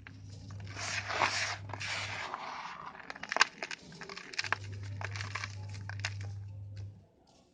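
Dry sand-cement pieces being crumbled and snapped: a gritty crunching for the first couple of seconds, then a run of sharp cracks and snaps that stops about a second before the end. A low steady hum sits underneath in two stretches.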